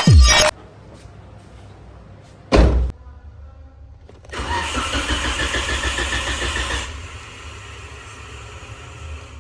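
Intro music ends in the first half second, and a single thud comes about two and a half seconds in. Then a car's starter cranks the engine for about two and a half seconds with a fast, even pulsing, and a quieter steady low hum follows.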